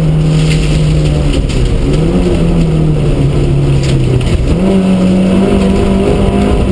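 Vauxhall Astra Mk2 rally car's 1400cc four-cylinder engine at speed, heard from inside the cabin. Its revs hold, dip, climb, then fall lower through the middle and jump back up about four and a half seconds in, as the driver works the throttle and gears along the stage.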